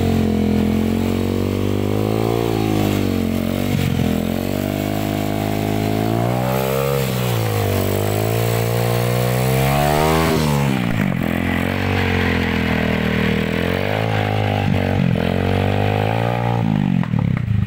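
Dirt bike engine revving up and down several times while the bike struggles to climb a steep, muddy trail.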